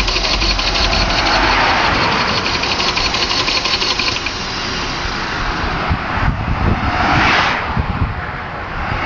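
Vauxhall Vectra 2.5 V6 engine running hard, with a dense fast rattle at first, then swelling twice in the second half into surges of rushing noise.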